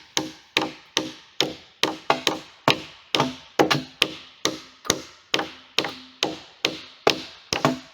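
Hammer blows on wood in a fast, even rhythm, about two to three strikes a second, each with a short ringing note, as nails are driven into the logs.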